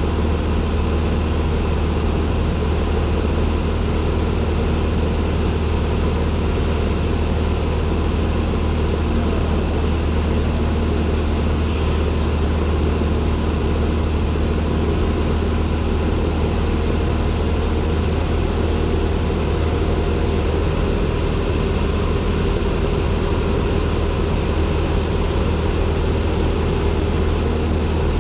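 Cessna 172N's four-cylinder Lycoming O-320 engine and propeller droning steadily at constant power, heard from inside the cockpit.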